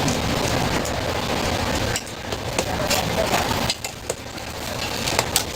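Busy street-food stall: a steady frying sizzle with scattered clinks of utensils and dishes, and voices underneath. The sound drops suddenly twice, about two seconds in and just before four seconds.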